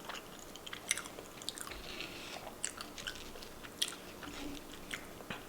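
A person chewing a mouthful of food, with scattered short wet clicks and smacks from the mouth.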